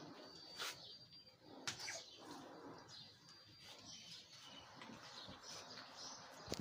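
Quiet ambience with faint, high bird chirps now and then, and a few soft rustles and taps from hands mixing sliced vegetables in a clay bowl.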